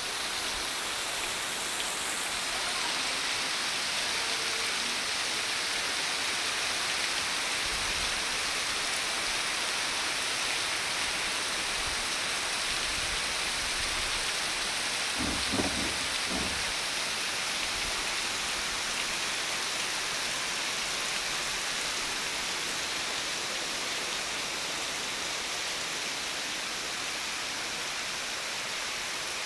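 Heavy tropical downpour: a steady hiss of rain streaming off a cottage's corrugated metal roof edge and splashing onto the ground. There is a brief low thud about halfway through.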